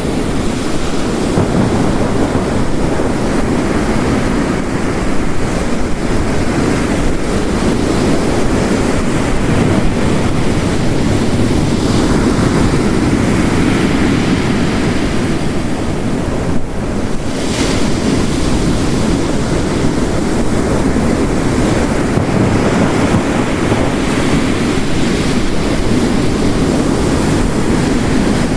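Steady storm ambience of ocean waves breaking on the shore layered with heavy rain, a dense deep rushing that swells and eases slightly and drops back briefly about two-thirds of the way through.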